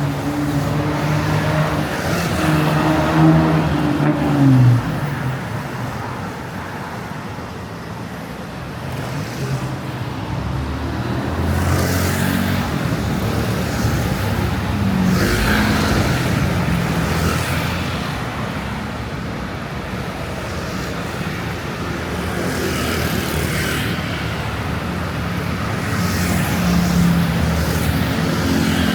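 Street traffic with motor vehicles passing one after another. A vehicle engine is heard close by at the start, its note dropping about four to five seconds in.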